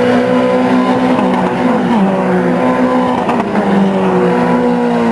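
Racing car engine running hard at high revs, its pitch holding steady with a step down about two seconds in.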